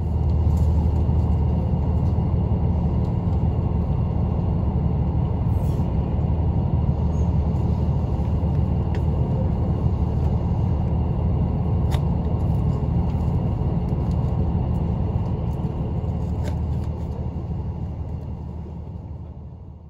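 Steady rumble of a train running, heard from inside a passenger car, with a few faint clicks.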